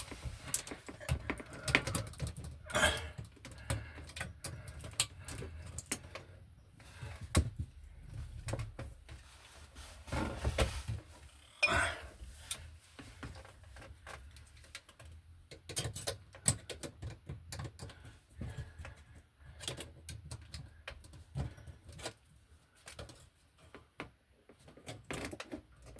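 Irregular metal clicks, taps and short scrapes of reducing washers and a fitting being handled and pushed against an electrical box's knockout.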